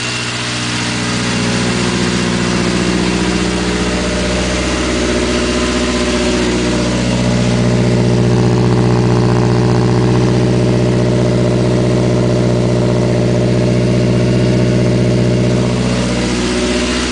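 1980 Triumph Spitfire 1500's four-cylinder engine, fitted with a Weber two-barrel carburettor, running at a steady fast idle while it warms up after a cold start. It grows louder about seven seconds in and eases back near the end.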